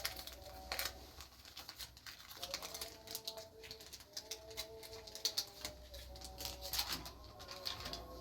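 Doves cooing in held, repeated calls, with scattered sharp clicks and knocks throughout.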